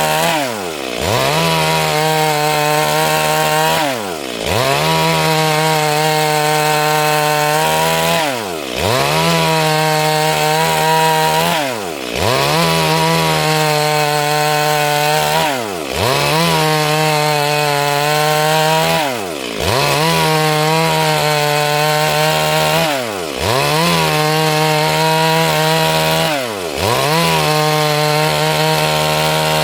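Stihl MS 382 two-stroke chainsaw running at high revs while sawing wood. Its pitch dips sharply and climbs back about every three and a half seconds, the loudness falling briefly at each dip.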